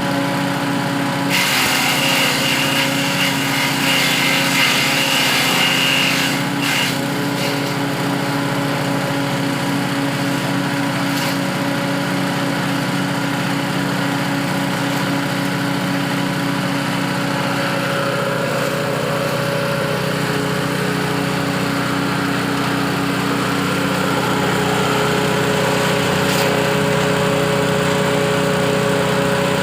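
Grass chopper machine running steadily at a constant speed. From about one to six seconds in, a harsher, hissing noise rises over the running sound. A few single knocks come later.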